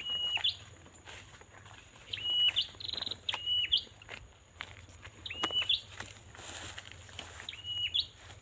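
A small bird calling repeatedly: a short, even whistle ending in a quick upward flick, about every two to three seconds, with faint rustling and clicks of movement underneath.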